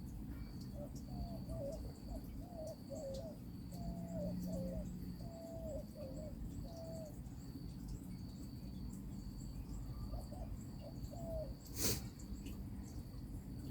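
A bird giving a series of short, low cooing notes, repeated about once or twice a second, with two more near the end. A steady high insect-like pulsing runs underneath, and there is one sharp click near the end.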